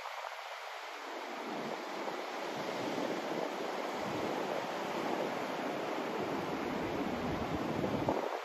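Rushing white noise that gradually grows louder and deeper over several seconds, then drops back suddenly near the end.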